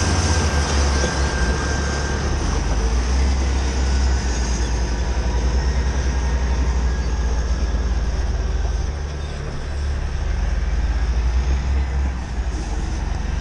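Heavy earthmoving machinery (bulldozer and wheel loader) with diesel engines running continuously, a steady deep rumble with dense mechanical noise over it. It eases off briefly about nine seconds in, then picks up again.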